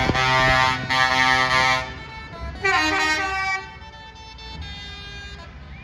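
Lorry air horns sounding: two long blasts back to back, a third about two and a half seconds in, then a fainter horn near the end, over a low engine rumble.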